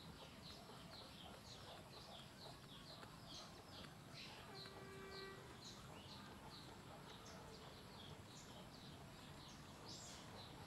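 Faint bird chirping: short high chirps repeating about three times a second. A brief held tone sounds about four and a half seconds in.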